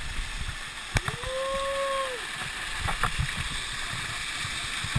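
Water rushing at a waterfall, with scattered knocks and one long held tone, like a drawn-out call, about a second in.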